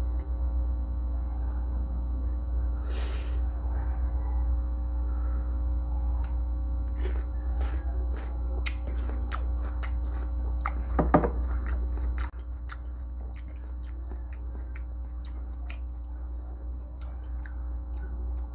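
Close-miked biting and chewing of crisp, juicy bilimbi (kamias) fruit: scattered wet crunches and clicks, with one louder crunch about two-thirds of the way in, over a steady low hum.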